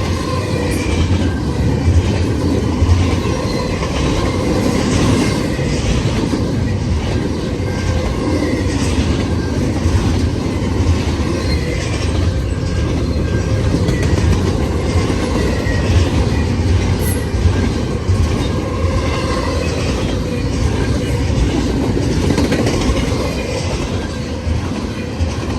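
A mixed freight train's cars rolling past close by: a steady rumble of wheels on rail, with clicking over the rail joints and faint wheel squeals that come and go.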